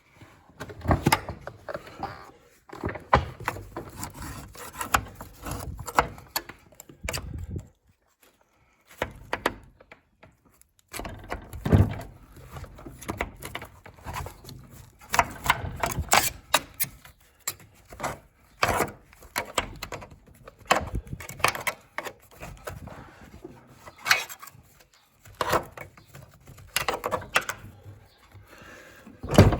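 Irregular knocking, scraping and rattling of hand work with tools, in uneven clusters with two brief pauses.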